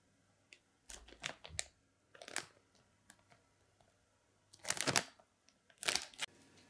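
Hands working small plastic and metal cooler-mounting parts on a motherboard: a string of short clicks and rustles, with the longest scrape about two thirds of the way through.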